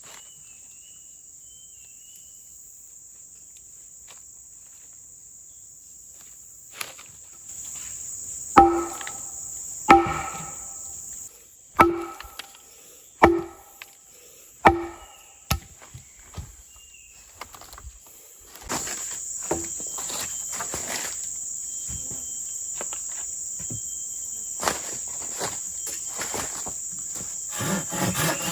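Forest insects droning steadily at a high pitch, louder in the second half. About six sharp, ringing blows of a tool on wood come roughly a second and a half apart in the middle, with a few fainter knocks after them.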